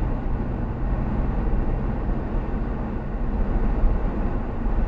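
Car interior with the engine running and a steady low rumble of driving, heard from inside the cabin while wading slowly through floodwater.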